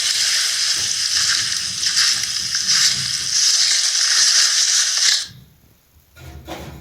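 Loud, steady hissing noise that cuts off suddenly about five seconds in, followed by a few faint knocks.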